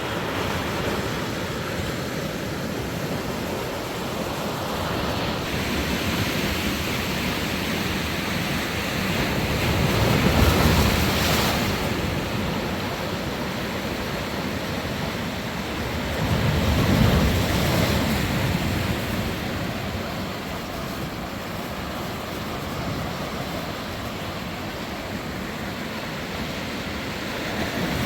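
Sea surf breaking on a sandy beach: a continuous wash of waves, with two louder surges about ten and seventeen seconds in.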